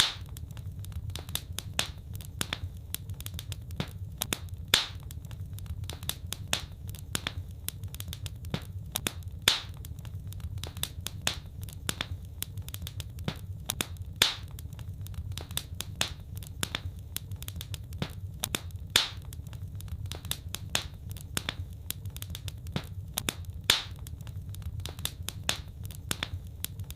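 Fireplace fire crackling: dense small pops and ticks over a low, steady rumble. A louder snap comes at even intervals of about five seconds.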